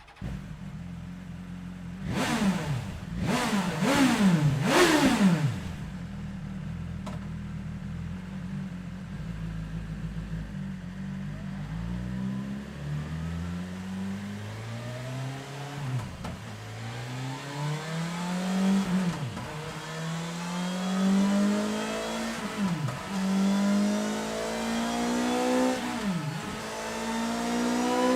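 BMW S1000 XR inline-four motorcycle engine through a Scorpion Serket Parallel slip-on exhaust: it idles, is blipped three times in quick succession, then settles back to idle. About twelve seconds in it pulls up through the gears on a dyno, the pitch rising steadily and dropping at each upshift, four shifts in all.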